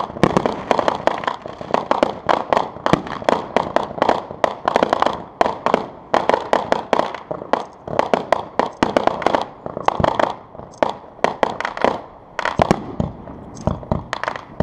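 Fireworks going off in rapid succession, with many sharp bangs a second and a few brief lulls: a consumer firework cake launching shots that burst overhead.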